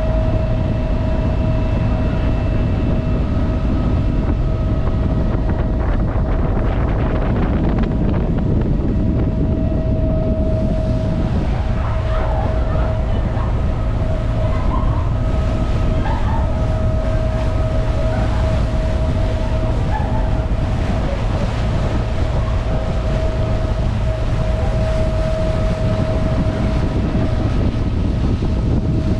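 Ferry engine running with a steady low drone and an unchanging hum.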